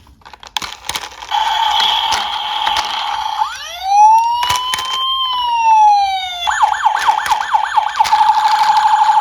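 Electronic police siren sound cycling through its modes: a steady buzzing tone, then one slow wail that rises and falls, then a fast warbling yelp at about four cycles a second. A few sharp clicks come just before it starts.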